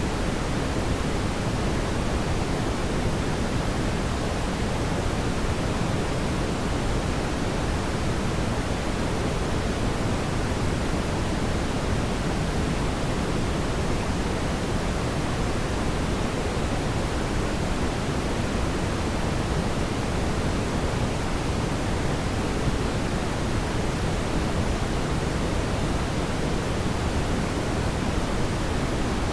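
A fire burning in a fireplace, heard as a steady, even rushing noise weighted toward the low end, with no distinct crackles or pops standing out.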